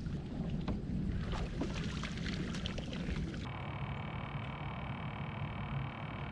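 A small boat moving on the water, with water splashing and short knocks over a low rumble. About three and a half seconds in it switches abruptly to a steady chorus of several high-pitched tones over a low rumble.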